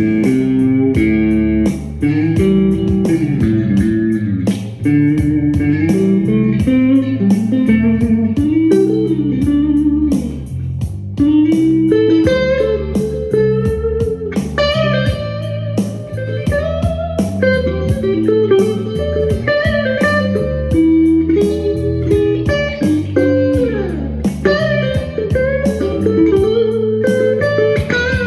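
Electric guitar playing blues-style lead lines, with notes bent up and down and a few sliding glides near the end.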